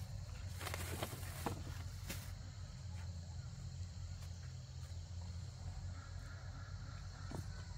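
Steady high insect chirring over a low steady rumble, with a few sharp clicks in the first two seconds.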